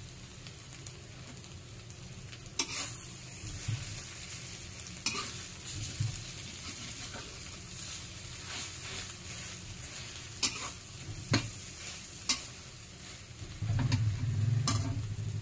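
Egg omelette with chopped bologna sizzling in oil in a metal wok while a metal spatula breaks it up, with a steady hiss and about six sharp scrapes and knocks of the spatula on the pan. A low hum comes in near the end.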